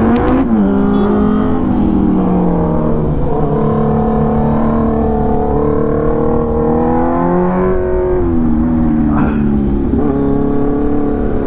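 Motorcycle engine running while riding, its pitch holding fairly steady and easing up and down with the throttle, with a short dip and recovery about seven to eight seconds in.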